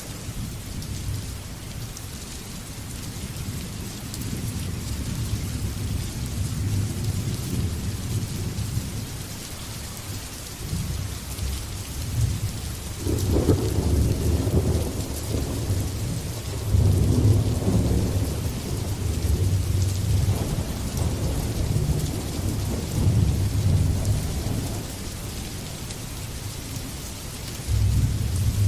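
Steady heavy rain with thunder rumbling on and off throughout, the deepest, loudest roll about halfway through and several more swells after it.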